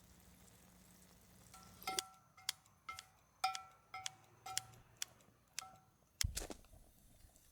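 A small metal object struck lightly about nine times over a few seconds, each tap ringing briefly at the same pitch, followed near the end by a single dull thump.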